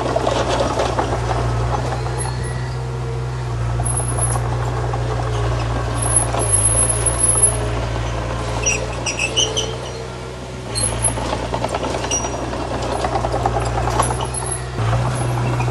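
Bulldozer's diesel engine running steadily under load, with a short spell of high-pitched squeals about nine seconds in and a brief easing of the engine note just after.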